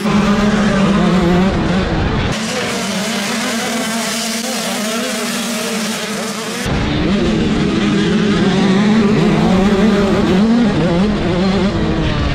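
A pack of 85cc/Super Mini two-stroke motocross bikes running together, many engines revving up and down at once. The sound shifts abruptly about two and seven seconds in.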